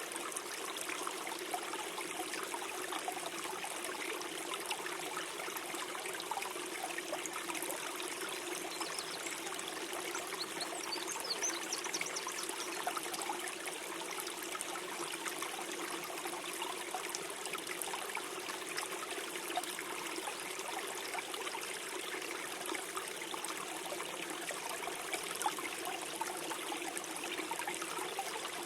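Gentle forest stream flowing, a steady gurgling trickle of water.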